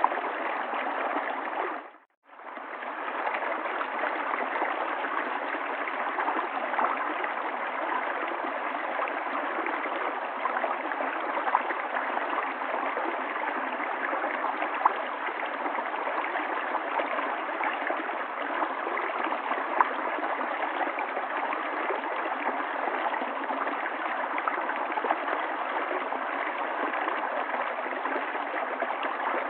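River water flowing in a steady rush with small gurgles and splashes. The sound dips out for a moment about two seconds in and then comes back.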